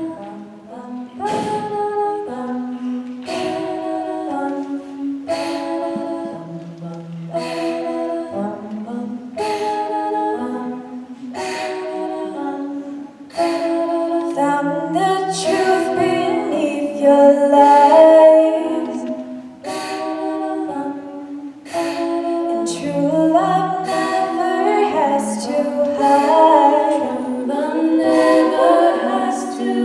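Mixed a cappella group singing sustained wordless backing chords that shift every second or two, over a steady beat of sharp vocal-percussion hits. It swells louder about two-thirds of the way in and builds toward the end.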